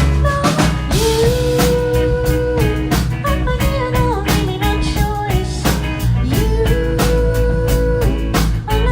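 Live band playing a steady groove: drum kit beat, bass and guitar, with long held sung notes over it, heard from the audience.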